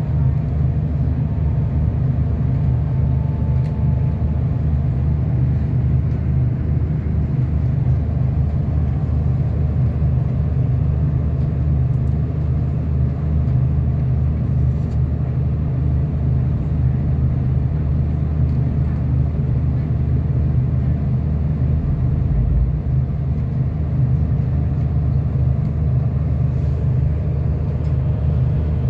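Steady low rumble of an electric suburban train running at speed, heard from inside the carriage, with a faint whine over it.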